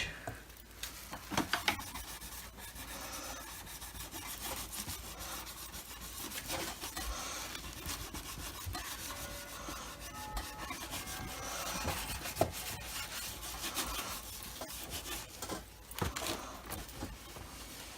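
Sponge dampened with alcohol rubbing and scrubbing against the plastic housing of a Dyson DC25 vacuum cleaner, a steady scratchy back-and-forth with irregular strokes, to take paint scuffs off.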